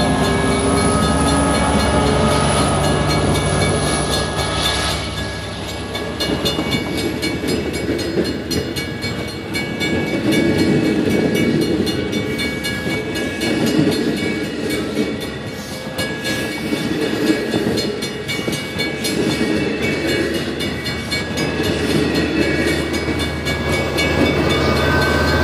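Long Island Rail Road diesel passenger train going by. A steady engine tone for the first five seconds or so gives way to wheel noise with rapid clicking over rail joints.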